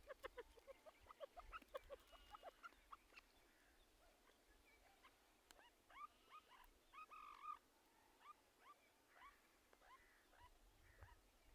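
Teetar (francolin) calling softly: a quick run of short down-slurred notes, about five a second, then a few stronger slurred notes about six to seven seconds in, and scattered single notes after.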